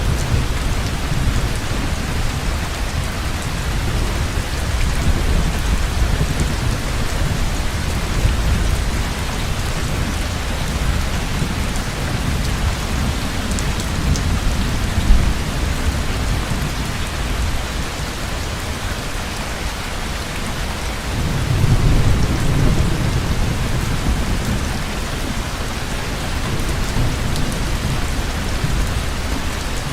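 Heavy rain falling steadily with low rolling thunder rumbling beneath it, the thunder swelling about two-thirds of the way through. A brief sharp tap stands out about halfway through.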